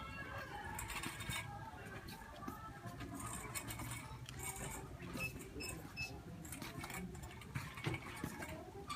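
Shopping cart rolling through a store, its wheels and wire basket rattling and clicking unevenly, over faint shop background chatter. A couple of short high beeps sound near the middle.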